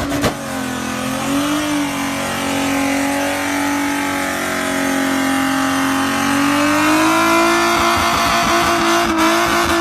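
A car engine running hard at high revs. Its pitch holds fairly steady, then climbs slightly from about seven seconds in as the car accelerates.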